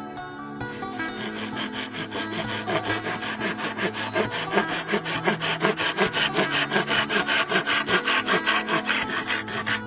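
Hand saw cutting through bamboo in fast, even back-and-forth strokes, starting about a second in.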